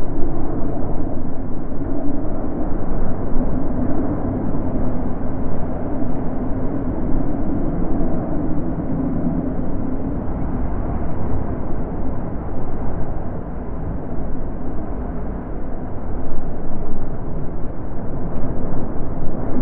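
Natural wind blowing: a low, continuous rushing that swells and eases in gusts.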